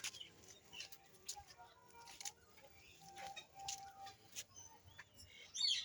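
Faint, scattered bird calls and chirps from the aviaries, with a few soft clicks.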